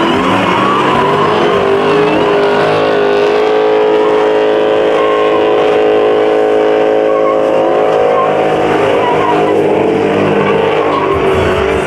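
Muscle car engine held at high revs over heavy tyre noise. Its pitch climbs about two to three seconds in, holds steady for several seconds, then wavers and drops near the end.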